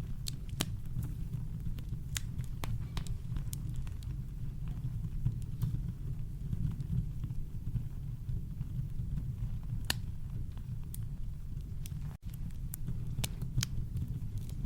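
Campfire crackling: sharp, irregular pops and snaps over a steady deep low rumble of brown noise. The sound drops out for an instant about twelve seconds in.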